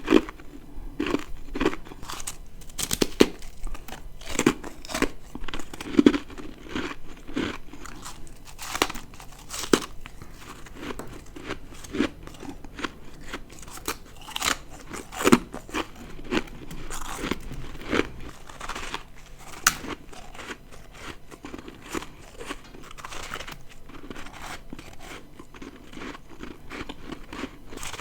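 Ice being bitten and chewed close to the microphone: a run of irregular crisp crunches, with a few louder bites around the middle.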